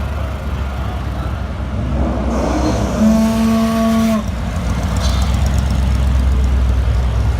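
Car engines rumbling low and steady, with a single car horn blast lasting about a second, about three seconds in.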